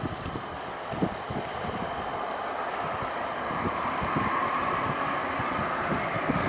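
Bombardier business jet's turbofan engines: a distant rushing sound with a thin high whine, growing slowly louder. Wind gusts buffet the microphone.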